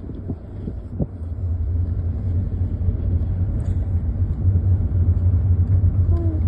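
Low steady rumble of a car driving, growing louder about two seconds in.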